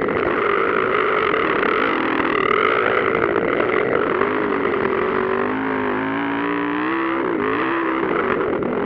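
Motocross motorcycles racing, their engines revving up and dropping back in pitch again and again, over a steady rough noise.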